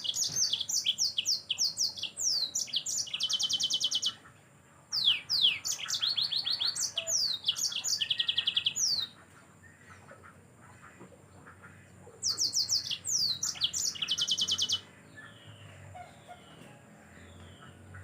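Yellow-fronted canary (Mozambique canary) singing in three bursts, each a run of quick falling whistles ending in a fast, even trill, with short pauses between.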